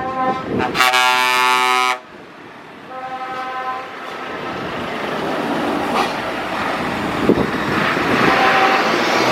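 Truck air horn blasting for about two seconds, then a shorter, fainter toot about a second later. After that comes the rising engine and tyre noise of a lorry approaching and passing.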